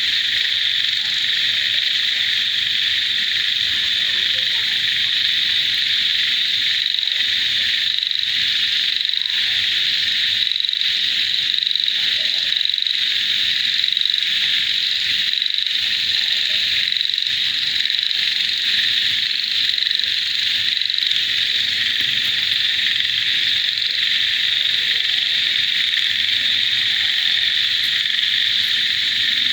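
A dense chorus of frogs and insects calling together: a continuous high-pitched trill, with faint scattered lower croaks beneath it.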